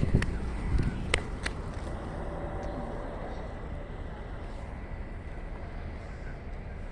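Container freight train passing, its wheels clacking over rail joints for the first second and a half, then a steady rumble slowly fading away.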